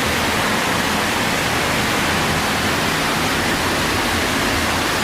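Heavy rainwater rushing through a storm drain in a steady, loud flow.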